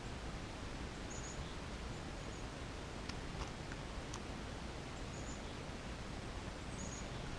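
Steady outdoor background hiss with a few short, high-pitched chirps from small songbirds, and a handful of sharp ticks around the middle.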